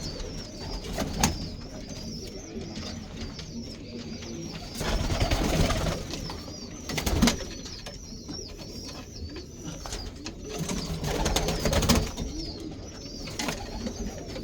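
Roller pigeons cooing in a loft, with a high repeating chirp running throughout and a few sharp knocks.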